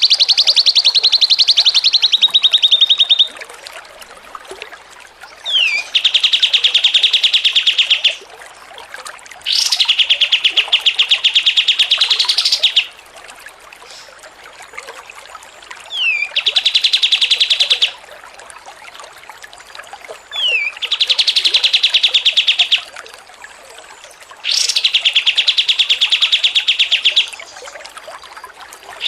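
A songbird giving long bouts of rapid, chattering trills, each two to three seconds long with short pauses between them, several opening with a quick falling whistle note.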